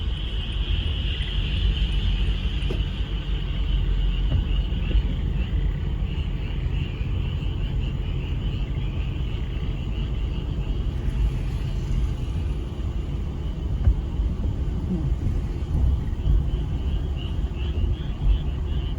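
A chorus of frogs calling: many rapid pulsed trills that merge into a continuous high chatter, strongest in the first few seconds and again near the end. A steady low rumble lies beneath it.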